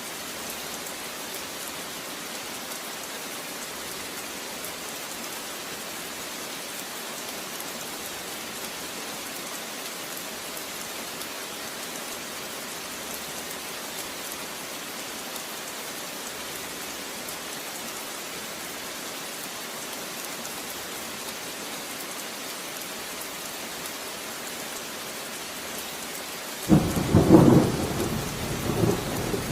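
Steady rain falling. Near the end a sudden loud clap of thunder breaks in and rolls on in several peaks.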